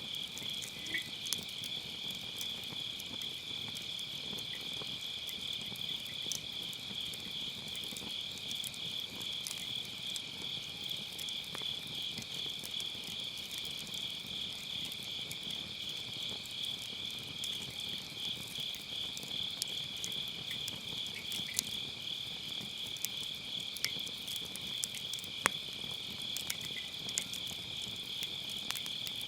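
Crickets trilling steadily in a high, finely pulsing chorus, over a wood fire that gives off scattered soft crackles and a few sharper pops.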